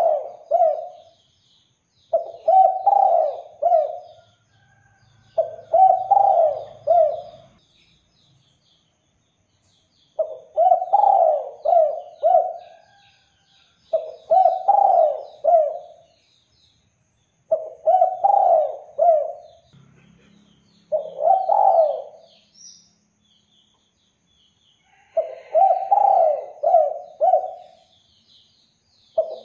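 Spotted dove (derkuku/tekukur) singing, giving its repeated coo phrase of three or four notes about eight times, every three to four seconds. Faint high chirping of small birds goes on behind it.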